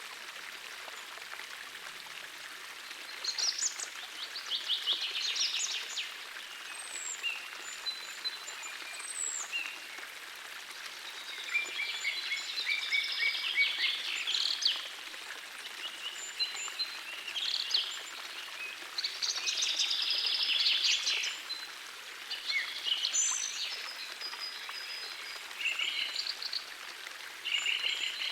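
Birds singing in repeated short bursts of quick, high notes over the steady rush of a gentle forest stream.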